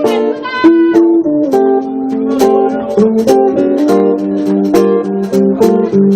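Acoustic guitar playing a picked-chord introduction, notes plucked one after another as the chords change about every second.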